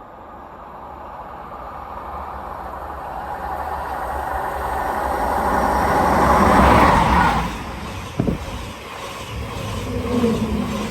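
A vehicle's rumble grows steadily louder for about seven seconds, peaks, then drops away. A single sharp knock comes about eight seconds in, followed by a lower steady rumble.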